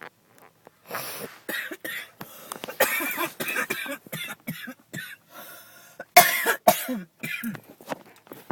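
A person coughing hard in a long fit of repeated coughs, starting about a second in, after taking a hit from a blunt.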